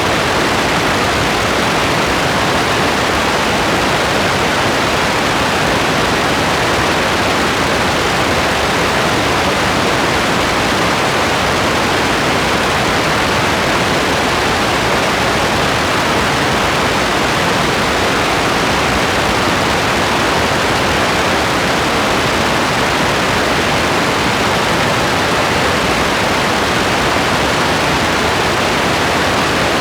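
Steady rain: a constant, even hiss with no separate drops, thunder or changes standing out.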